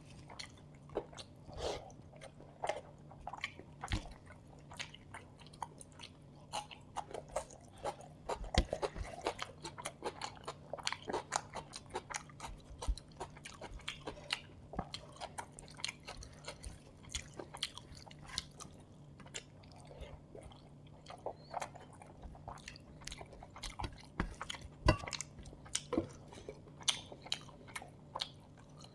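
Close-miked eating sounds: a person chewing and biting biryani, chicken and onions, with frequent wet mouth clicks and occasional crunches at an irregular pace.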